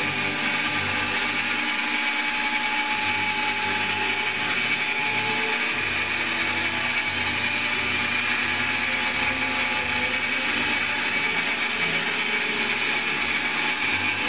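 Steady mechanical running of the Stretham Old Engine, a Victorian steam beam engine now turned by an electric motor for demonstration, a continuous machinery noise with a motor whine.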